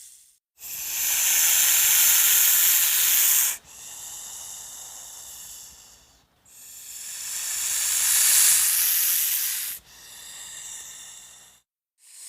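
Snake hissing: two long, loud hisses about six seconds apart, each trailing into a softer, shorter hiss before a brief pause.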